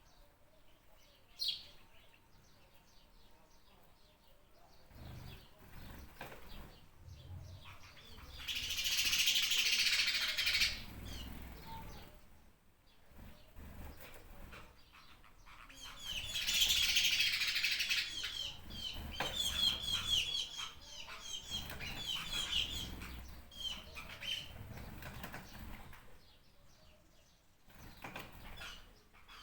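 Small birds chirping in quick runs of short, falling chirps, with two louder rushing bursts of a couple of seconds each, about nine and seventeen seconds in. A low rumble runs underneath.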